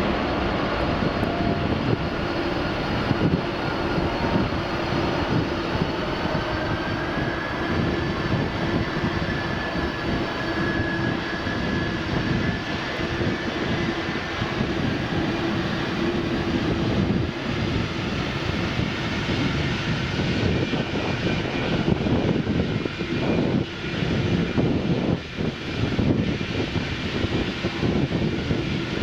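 Large jet airliner's engines running loud and steady, a dense rumble with several steady whining tones over it that fade out about halfway through.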